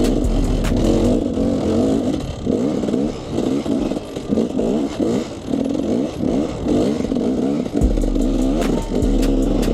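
KTM 300 EXC two-stroke enduro engine revving up and dropping back in quick short bursts, about two a second, as the throttle is worked over rough ground, with scattered clicks and clatter.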